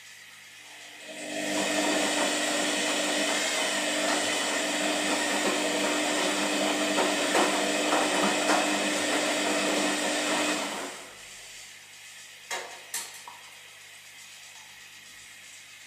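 Washing machine running in its wash cycle: the motor and turning drum start about a second in with a steady hum and whine, run for about ten seconds, then stop. Two short clicks follow, and a faint low background remains.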